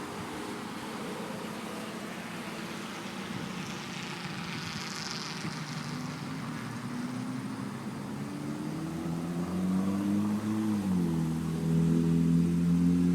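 Car engine accelerating over road noise. Its pitch climbs, drops sharply about eleven seconds in, as at a gear change, then holds steady and louder.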